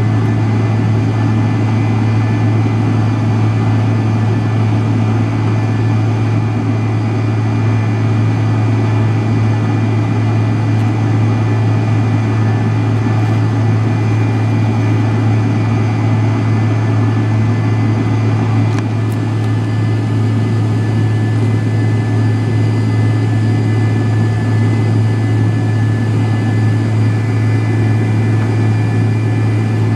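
Cabin noise of a McDonnell Douglas MD-83 heard from a rear seat close to its tail-mounted Pratt & Whitney JT8D-200 turbofans: a loud, steady low engine drone with airflow rush and a faint steady high whine.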